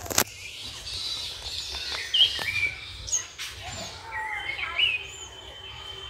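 Small birds chirping: short whistled notes that rise and fall, repeated every second or so. A sharp click comes just after the start.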